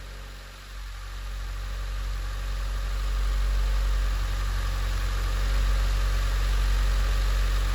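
Proton Satria GTI's 1.8-litre four-cylinder engine idling steadily while it warms up for an oil change, growing louder over the first few seconds and then holding even.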